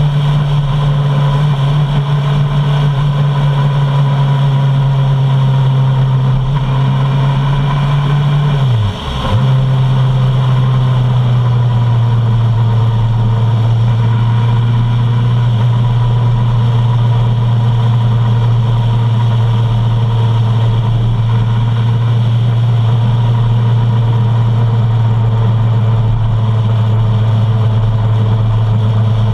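Suzuki Bandit 650's inline-four engine running steadily under way. About nine seconds in the note dips sharply and comes back lower as the rider shifts up a gear, then holds steady.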